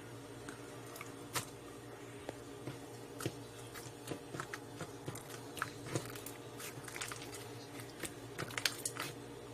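Slime being handled: irregular small clicks and pops as it is pressed and worked, over a steady low hum.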